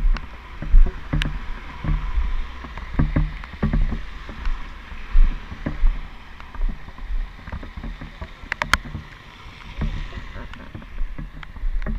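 Gusty wind rumbling on the microphone, with a steady hiss and scattered sharp taps and knocks.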